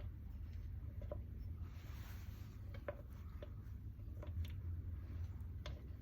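Scattered light clicks and taps, about six of them at uneven intervals, with soft rubbing, over a steady low hum.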